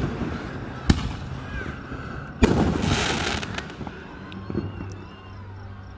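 Aerial fireworks bursting: a sharp bang about a second in, then a louder bang about two and a half seconds in followed by about a second of crackling.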